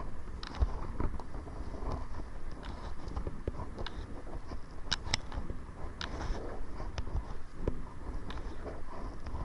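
Kayak paddling: irregular splashes and drips of water off the paddle blades, with small knocks, over a constant low rumble of wind on the microphone.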